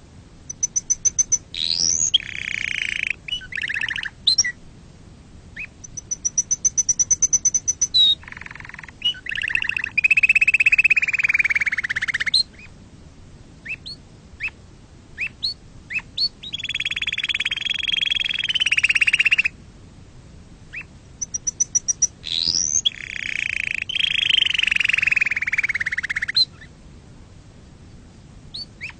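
Domestic canary singing in long phrases: rapid high trills alternating with low, buzzing rolls of two to three seconds each, separated by brief pauses with a few scattered chips.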